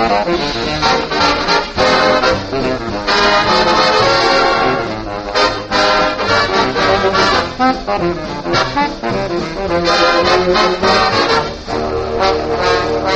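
Swing dance orchestra playing a brass-led big-band number, with trombones and trumpets prominent.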